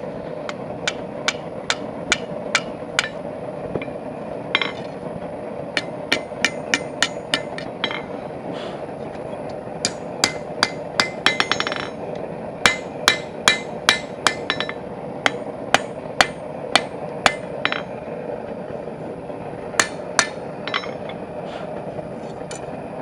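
Blacksmith's hammer striking hot steel bar stock on an anvil, ringing blows in runs of quick strikes broken by short pauses, as the bar is drawn down. A steady hum runs underneath.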